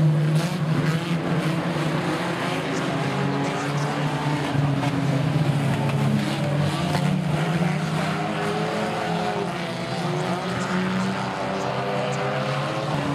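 Banger racing stock cars' engines running and revving as they race round the oval, the engine notes rising and falling as cars pass.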